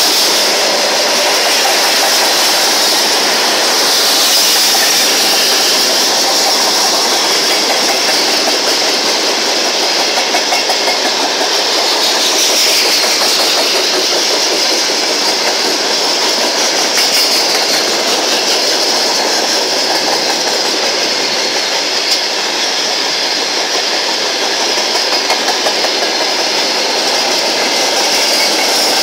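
A long freight train of tank cars, hoppers and open wagons passing close by at speed: a loud, steady noise of steel wheels on rail with a clickety-clack as the wheels run over the rail joints.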